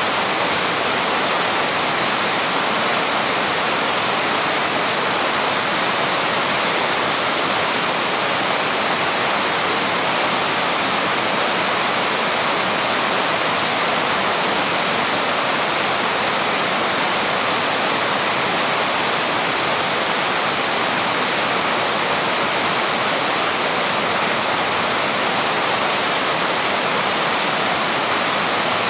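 Waterfall: water pouring steadily over rock, a constant rushing with no breaks.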